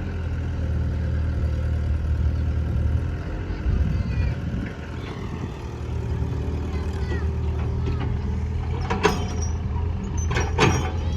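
A heavy diesel engine running steadily at a low, even pitch. Two sharp knocks come near the end, the first about nine seconds in and the second about a second and a half later.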